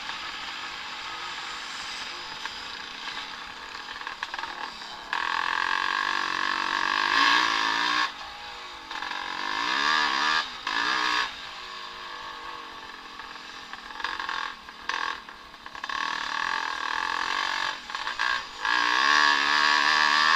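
Vintage motocross bikes racing on the track, their engines revving hard and rising and falling in pitch with throttle and gear changes. The engines get much louder about five seconds in, then cut in and out sharply as riders roll off and back on the throttle.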